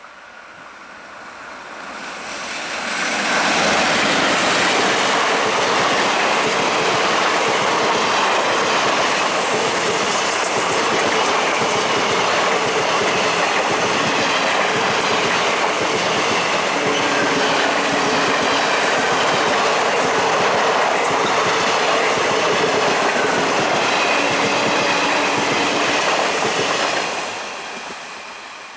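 Express train passing at speed, its wheel and rail noise building over about three seconds, holding steady and loud for over twenty seconds as the coaches run by, then falling away near the end.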